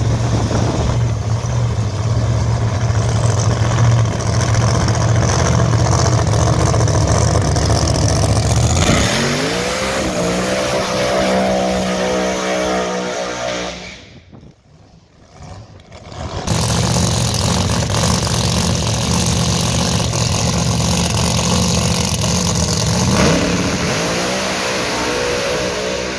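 Drag car's engine running loud and low, then revving up with a rising pitch about nine seconds in and held high through a smoky tyre burnout. The sound drops out for about two seconds, then returns at high revs and rises again near the end as the car heads down the strip.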